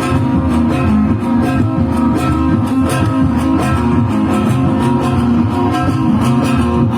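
Band music led by plucked guitar over a bass line, with a steady beat and no singing.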